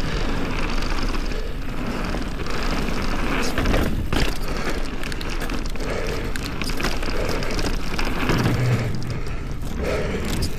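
Polygon Colossus N7 mountain bike riding down a rocky dirt trail: tyres rolling over dirt and rocks, with a steady run of knocks and rattles from the bike over the bumps.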